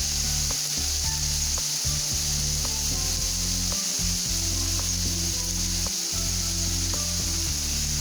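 Hail falling: a steady hiss with scattered small ticks of hailstones striking.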